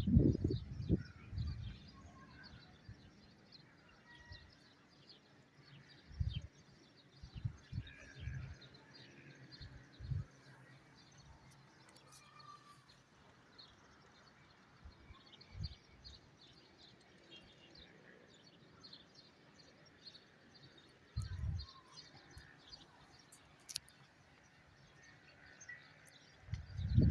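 Faint chirping of small birds, many short calls, broken by a few dull low thumps, the loudest of them about six seconds in and near 21 seconds.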